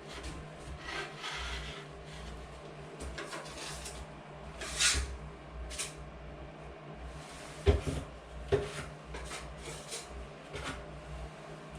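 Irregular scraping and rubbing strokes of hand tools working drywall joint compound, with two sharp knocks a little past the middle.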